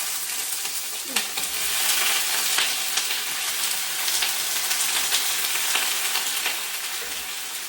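Raw chicken wings sizzling and spitting loudly in hot oil and melted rock sugar, a dense hiss full of crackles and pops. The wings went in wet and undrained, so the water on them makes the oil spatter.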